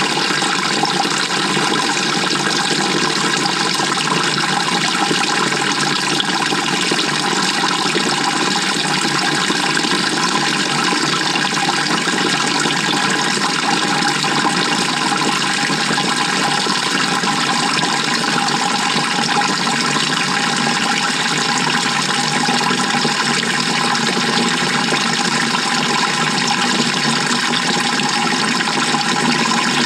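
Steady rushing and churning of water inside the tub of a GE top-loading washing machine during its wash cycle, heard from within the wash water.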